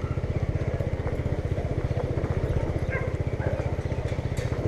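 Vehicle engine running steadily with a fast, even pulsing.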